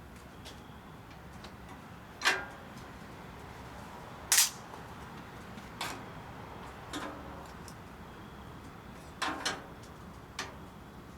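Wood fire burning in a homemade 55-gallon barrel rocket stove, giving irregular sharp pops and cracks over a low steady background, about seven loud ones with many faint ticks between; the loudest comes about four seconds in and two come close together near the end.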